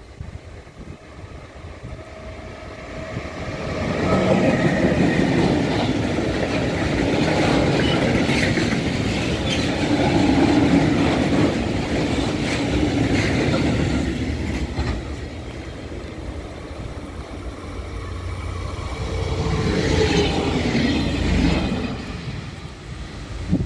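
A freight train of covered wagons rolls past close by, a heavy rumble with wheels clacking over the rail joints. It grows loud about four seconds in and eases off after about fourteen seconds. Near the end an erixx Coradia LINT diesel railcar passes, bringing a second loud swell about twenty seconds in.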